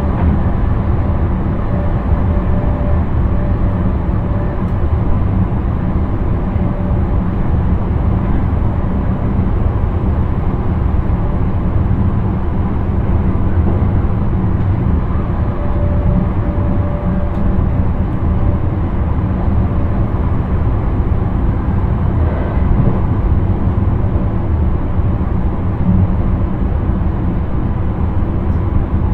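Steady running noise of an intercity train at speed, heard inside the driver's cab; the sound sits mostly low and even, with no distinct events.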